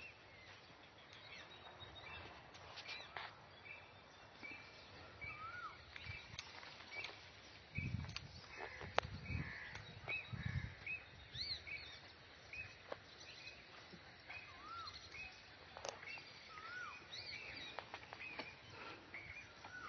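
Birds calling outdoors: many short chirps and repeated rising-and-falling whistled notes, with scattered sharp clicks. A few dull low thumps come about halfway through.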